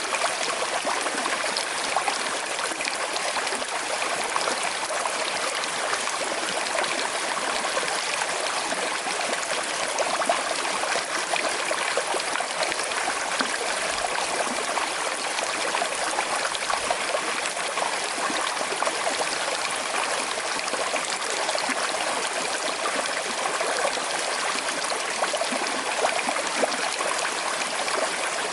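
Small river flowing over stones with a slight current: a steady rushing, trickling babble of water.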